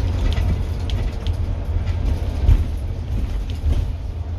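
Scania N230UD double-decker bus engine running under way, a strong low rumble with small rattles over it and one louder thump about halfway through.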